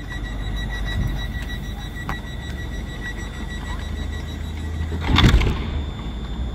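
Train at a station platform: a steady low rumble with a thin, steady high whine over it, and a short loud hiss about five seconds in.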